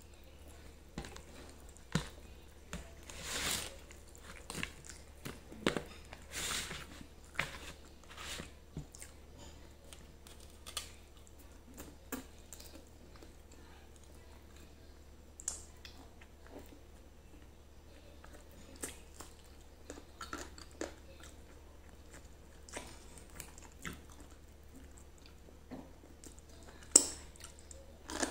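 Close-up mouth sounds of a person eating grilled chicken and rice by hand: irregular chewing, lip smacks and bites. They come thickly in the first third and more sparsely after, with one sharp, louder click near the end.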